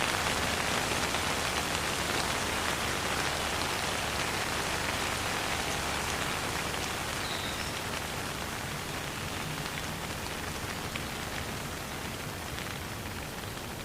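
Steady, even rain falling and pattering on surfaces, easing slightly softer toward the end. A faint, short, high chirp comes about halfway through.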